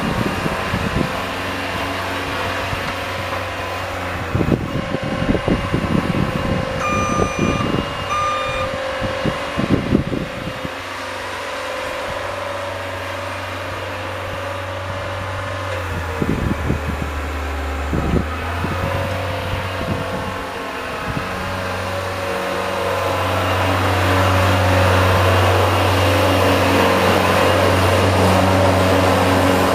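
Engine of a snow-plowing vehicle running steadily, its note dropping about halfway through and then coming back up louder near the end, with knocks and clunks from the plow at work and two short high beeps early on.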